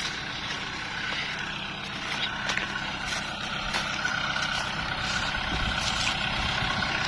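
Kubota L5018SP tractor's diesel engine running steadily, with a steady high whine over it.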